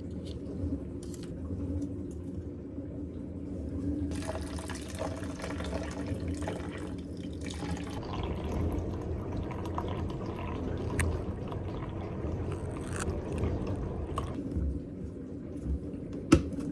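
Water running or being poured as a steady rush, starting about four seconds in and stopping near the end. A sharp knock comes just before the end.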